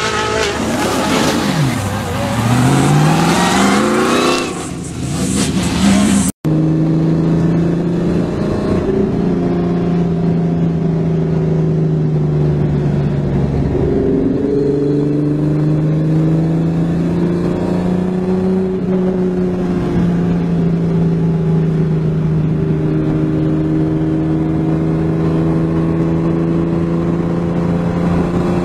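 A car's engine revving hard as it climbs a hill-climb course, its pitch sweeping down and then back up. About six seconds in, a sudden cut to an in-car engine note at speed: steady, with the pitch dipping and rising again a few times.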